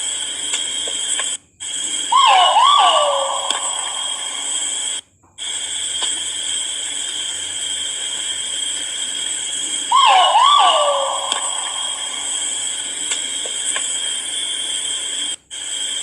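Great argus pheasant calling twice, about eight seconds apart, each call a pair of loud swooping notes, over a steady high-pitched background hiss. The sound cuts out abruptly three times at edit joins.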